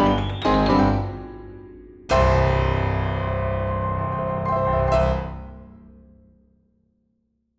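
Piano music: a quick rising run of notes, then a full chord struck about two seconds in that rings and dies away, gone by about seven seconds.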